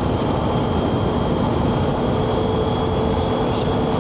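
Motorcycle running steadily while riding along: an even engine hum with a few steady tones under a constant rushing noise.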